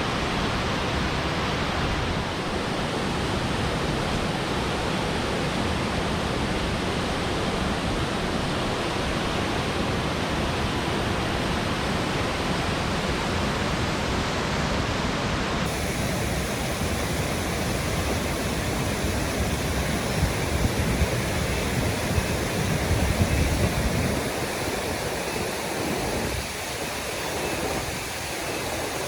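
Silvertip Falls waterfall: a steady, dense rush of falling water. Its tone shifts slightly about halfway through, and a few low rumbling swells come through around three-quarters of the way in.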